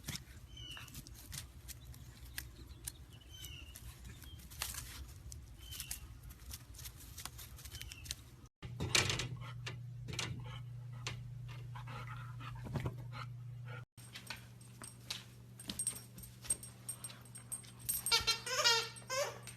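Golden retriever puppy whimpering: a run of high, wavering yelps near the end, with faint high squeaks and clicks earlier. A steady low hum runs through the middle.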